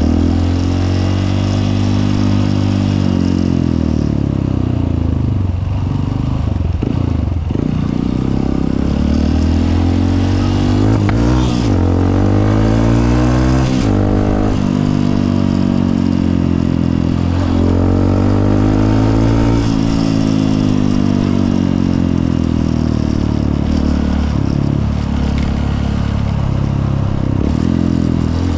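Honda CRF150L's single-cylinder four-stroke engine under way, its pitch climbing and dropping several times as the bike accelerates and eases off.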